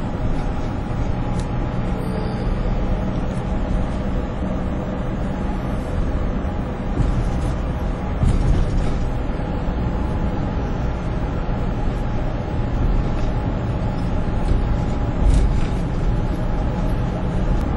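Steady drone of highway traffic heard from a moving vehicle, engine and tyre noise mixed, with a few brief clicks.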